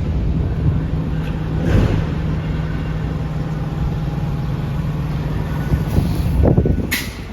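Truck's diesel engine running steadily with a low rumble, with a short hiss near the end.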